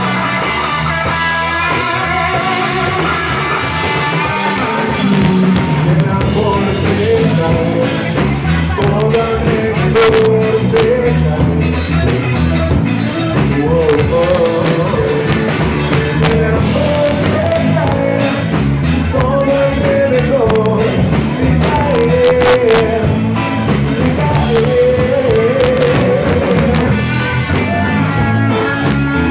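Rock song with electric guitar, drums and a sung vocal line that comes in about five seconds in.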